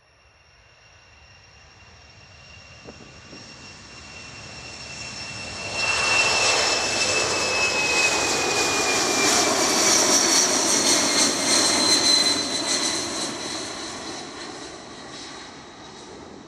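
Boeing C-17 Globemaster III passing with its four Pratt & Whitney F117 turbofan engines running: a rising roar with a high whine that drifts down in pitch. The roar jumps to full loudness about six seconds in, holds, then fades over the last few seconds.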